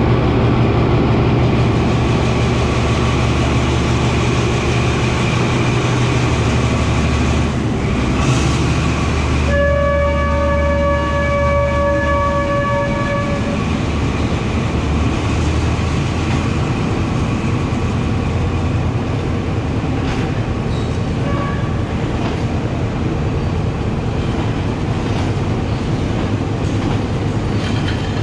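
A diesel locomotive with a V16 engine passes close by, its engine drone loud. About ten seconds in a horn sounds one steady chord for about four seconds. Afterwards the passenger carriages roll past, wheels clattering over the rail joints.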